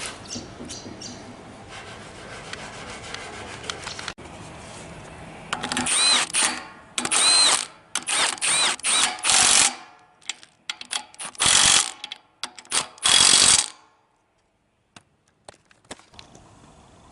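Electric drill run in a series of short trigger bursts, its motor whine rising and falling in pitch with each squeeze, typical of drilling out bolt holes in a gearbox case. A few light clicks follow.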